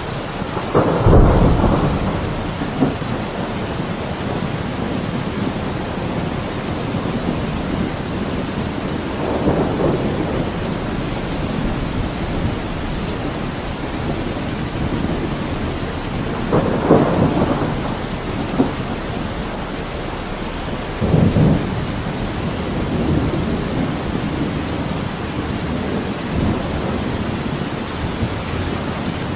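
Thunderstorm: steady heavy rain with thunder rumbling several times, the loudest clap about a second in and further rolls near ten, seventeen and twenty-one seconds.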